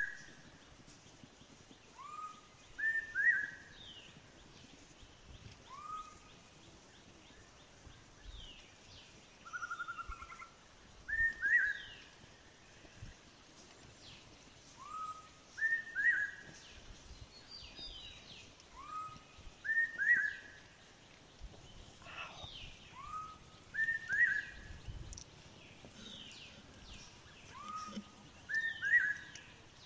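A bird singing the same short phrase over and over, about every four seconds: a rising note followed by a higher double note. Fainter chirps from other birds sound in between.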